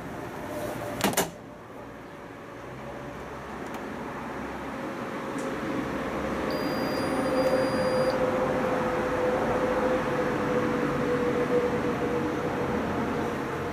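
A sharp double click about a second in, then a steady machine hum with one held tone that grows louder over the next several seconds and then holds.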